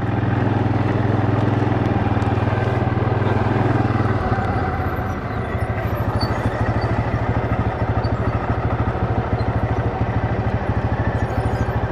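Small off-road vehicle engine running under load over an icy hill: a steady drone at first, then a slower, evenly pulsing chug from about four seconds in.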